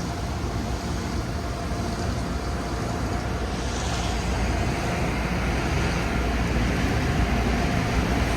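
Steady vehicle running noise: a low rumble with a faint even hum, slowly getting louder, from an SUV idling and creeping toward the wash bay.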